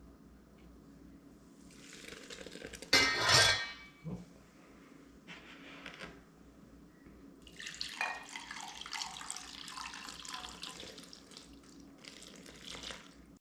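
Kitchen sink: a short loud gush of water about three seconds in, then water running from the tap with dishes and cutlery clinking from about eight seconds on.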